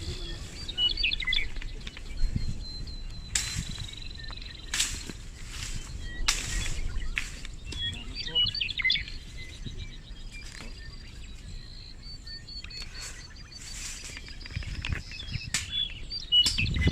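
Small birds chirping in short twittering bursts, over a faint thin high steady tone. Brief rustling or crunching noises come every second or two.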